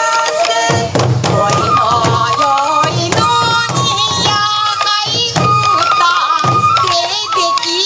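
Traditional sansa odori music from Iwate: a wavering, ornamented bamboo flute melody over repeated deep taiko drum strokes and sharp strikes, with voices singing.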